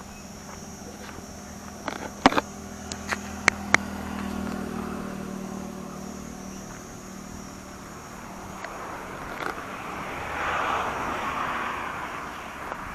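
A motor vehicle's engine humming as it passes, swelling and fading over a few seconds, followed near the end by a second swell of rushing road noise. A few sharp clicks or snaps sound about two to four seconds in.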